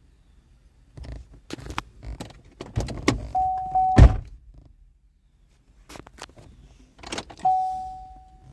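Knocks and thunks around a Chevy Malibu, the loudest about four seconds in, with a steady electronic tone sounding twice, briefly about three seconds in and again near the end.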